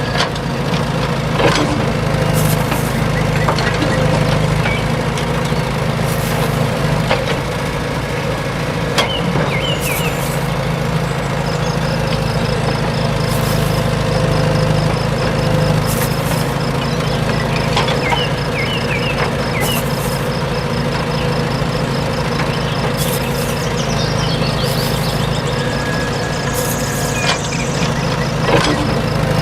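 A motor running steadily with an engine-like hum, with scattered clicks and knocks. A fast, even, high-pitched ticking joins about eleven seconds in and carries on.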